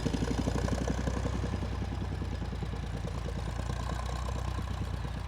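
Tractor engine running steadily with a rapid, even firing beat, easing a little in loudness over the first couple of seconds.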